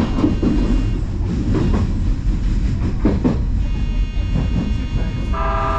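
Odakyu Line electric commuter train running along the track: a steady rumble with wheels clacking over rail joints every second or so, and a faint high motor whine. Near the end a train horn sounds and holds.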